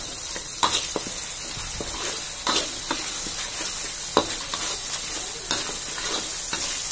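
Ground spice paste sizzling in hot oil in a wok while a spatula stirs it, scraping and tapping against the pan in scattered sharp clicks over a steady frying hiss.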